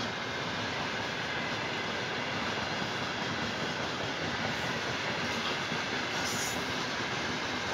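Wagons of a heavy freight train rolling past at speed. The wheels make a steady rolling noise on the rails.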